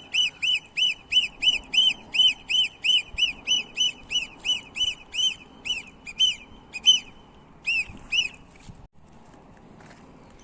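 Indian ringneck parrot calling: a steady run of short, shrill, arched screeches, about three a second, that stops about seven seconds in, with a last two or three calls shortly after.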